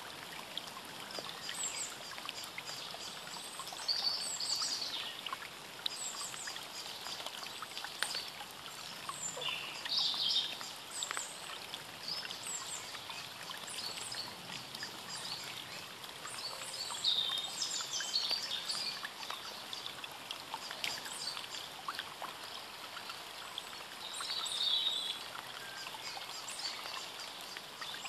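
Small birds chirping and calling now and then over a steady rushing background noise.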